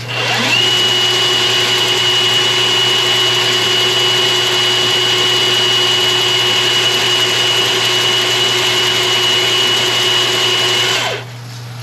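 Milwaukee M18 sectional drain machine spinning up and running with a steady whine as it turns its 7/8-inch sectional cable against a main-line clog, then stopping near the end.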